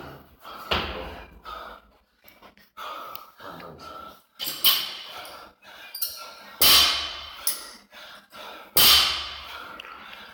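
Loud, sudden thuds every two to four seconds, four in all, from athletes' gym equipment or landings hitting the floor during a CrossFit workout, with quieter shuffling between.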